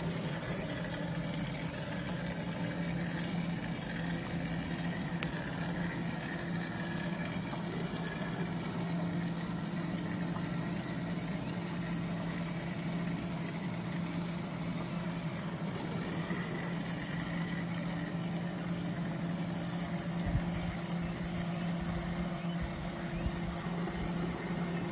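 A steady mechanical hum with a constant low tone that holds unchanged throughout.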